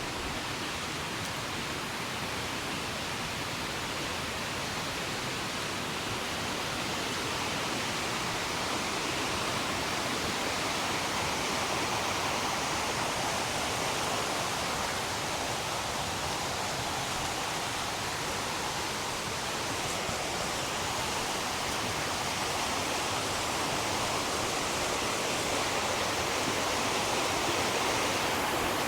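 Fast-flowing river rushing over rocks: a steady, even wash of water noise that grows gradually louder.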